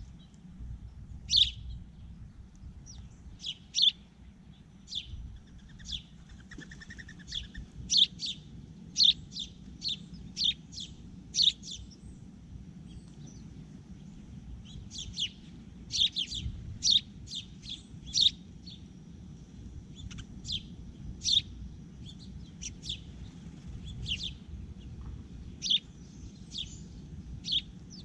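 Small birds calling with short, sharp, high chirps, repeated irregularly and sometimes several in quick succession.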